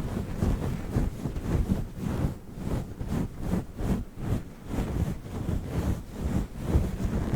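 A fluffy furry microphone cover being rubbed and brushed on the microphone, giving a dense, low, rumbling rustle in quick irregular strokes.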